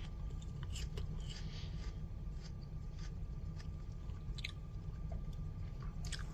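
A person chewing and biting into a crisp apple, with short irregular crunches, over a steady low hum.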